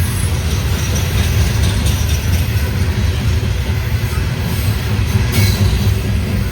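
Loaded coal train rolling past, a steady heavy rumble of the cars on the rails.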